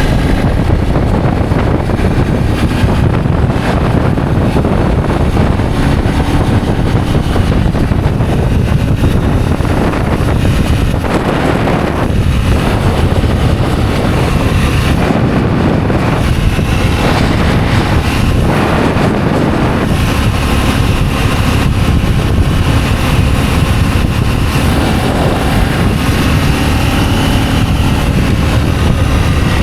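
Adventure motorcycle riding along, its engine running steadily under heavy wind noise on the microphone.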